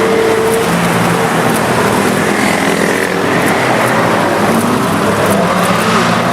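Several supercar engines running at moderate revs, their pitches shifting slightly up and down.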